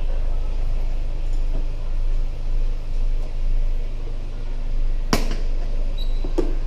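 Steady low rumble of riding a Honda PCX 125 scooter, picked up by a helmet camera. A sharp click or knock comes about five seconds in, and a fainter one near the end.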